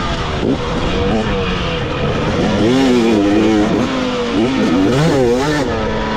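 Dirt bike engine being ridden hard, its revs repeatedly climbing and dropping with throttle and gear changes, over rough wind and engine noise.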